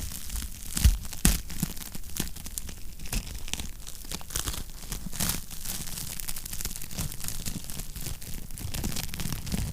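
Wood fire crackling in a fireplace: a dense run of small crackles over a low steady rumble, with two louder pops about a second in.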